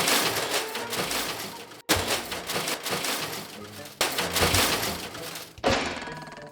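A run of loud crashing, shattering sound effects, a fresh crash about every two seconds, each fading away.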